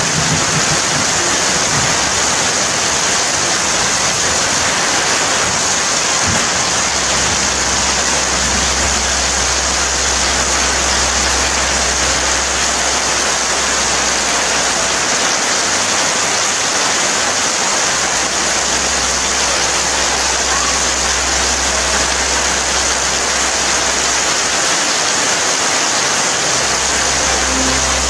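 Steady rain falling, an even hiss. A low rumble swells and fades underneath about three times.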